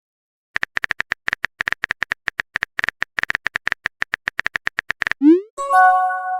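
Phone keyboard typing clicks, fast and uneven, for about four and a half seconds. Then a quick rising swoosh of a text message being sent, and a short electronic chime of several tones.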